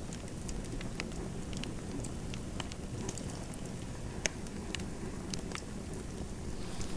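Fireplace fire crackling: scattered sharp pops and snaps, several a second, over a steady low rush.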